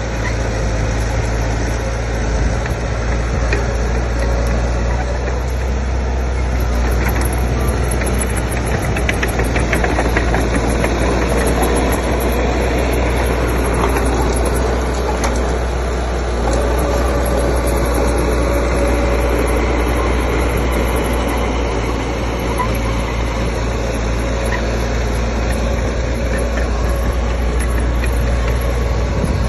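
Heavy diesel engine of earthmoving machinery running steadily under load, a deep drone with a few faint metallic clanks.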